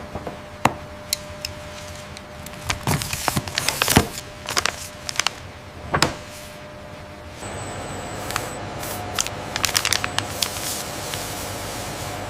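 Indoor clatter of scattered clicks and knocks, like small objects and doors being handled, over a steady hum; about seven and a half seconds in the background turns louder and steadier with a faint high tone.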